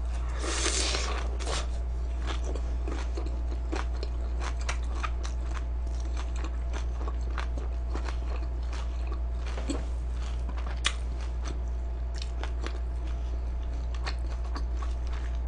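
Close-up chewing of crunchy food: a steady run of small sharp crunches and crackles, with a louder, denser crunch about a second in.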